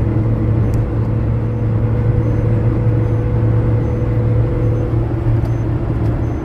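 A car running steadily, a low engine hum with road noise. A thin steady whine stops about five seconds in.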